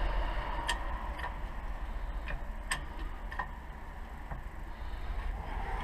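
About six sharp metallic clicks at irregular intervals over a low steady hum, as a wheel bearing is pressed into its hub.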